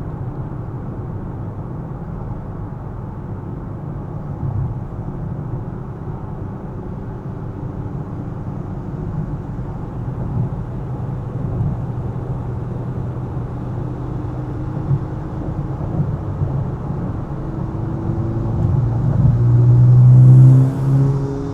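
Car driving through city streets: a steady low rumble of road and engine noise. An engine note builds gradually over the second half, loudest about twenty seconds in, then drops suddenly and starts rising again, as when accelerating through a gear change.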